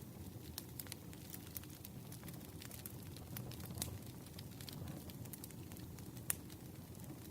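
Campfire burning: a steady low rumble of flames with scattered sharp crackles and pops, one louder pop about six seconds in.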